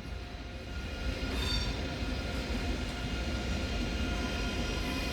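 ICE 3 (class 406) high-speed electric train pulling into the station: a low rumble with several steady whining tones, growing a little louder after about a second.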